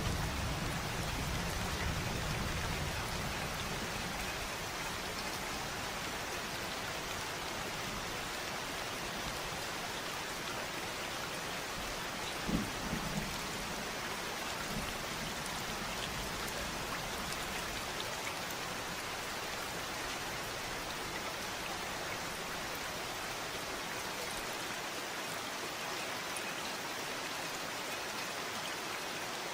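Steady rain falling, with the last of a thunder rumble dying away in the first few seconds and one brief low thump about halfway through.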